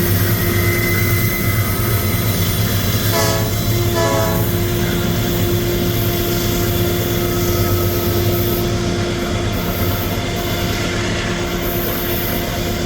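Diesel freight locomotive running with its train, a steady heavy rumble, sounding two short horn blasts about three and four seconds in.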